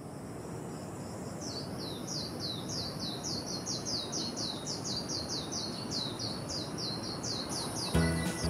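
A bird calling a fast, even series of short, high notes that each slide downward, about three a second, over a steady high hiss and low outdoor background noise. Music comes in just before the end.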